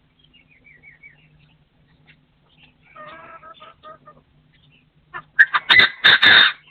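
Partridge calling: faint falling chirps at first, a run of low clucks about three seconds in, then a loud, harsh burst of several rapid notes near the end.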